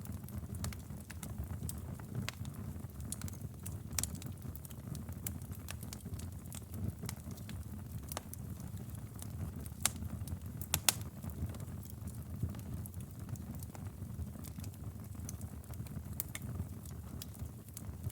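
Wood fire burning in a fireplace: a steady low rumble of flame with scattered crackles and sharp pops of burning logs, a few louder pops around ten to eleven seconds in.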